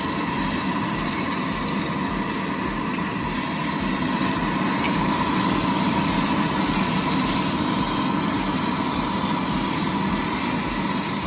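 A 1 kg-batch coffee roaster running, a steady mechanical whirring hiss with a faint steady tone through it.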